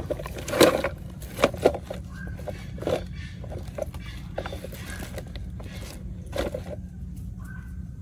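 A handful of sharp knocks and clicks over a steady low hum: the loudest about half a second in, two in quick succession about a second and a half in, and another past six seconds.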